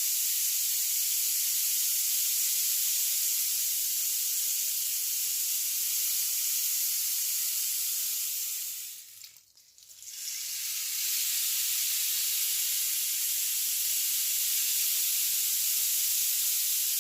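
A 1.2 m rain stick: a steady high hiss of its filling cascading down inside the tube, fading away about nine seconds in, then building back up a second or so later and running on.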